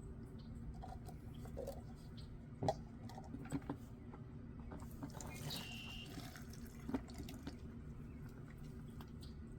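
Drained two-stroke fuel mix being handled in plastic cups: light clicks of the cups being picked up and set down, and a short trickle of poured liquid about halfway through.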